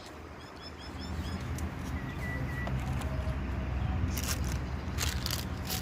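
Small birds chirping in short quick notes, with a brief whistled note about two seconds in, over a low steady hum that grows louder from about a second in.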